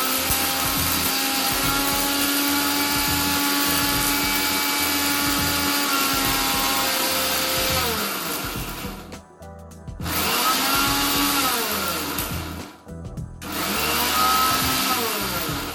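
Agaro Blitz 750 W mixer grinder motor running at full speed for about eight seconds, then switched off and spinning down with a falling whine. It is then pulsed on twice for short runs, each winding down the same way.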